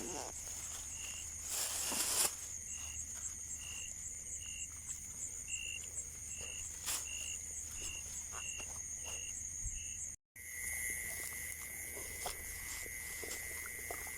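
Insects calling: a steady high-pitched trill with a short chirp repeating about once or twice a second. After a cut about ten seconds in, a steady lower-pitched buzz takes over. Faint rustles and knocks sound now and then.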